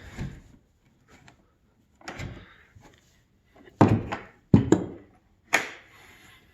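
Storage hatch lids on a jon boat deck being handled, giving four hollow knocks spread over a few seconds, as lids that have no gas struts yet are opened and dropped shut.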